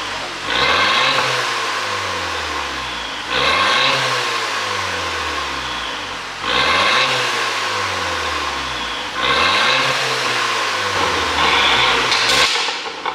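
Audi A5 2.0 TFSI turbocharged four-cylinder engine, heard through its custom on/off exhaust, free-revved about five times, roughly every three seconds. Each rev climbs quickly and then falls back slowly toward idle, with two quick blips close together near the end.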